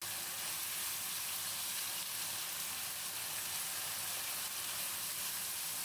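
Ground spice paste sizzling steadily in hot oil in a wok as it is stirred with a spatula.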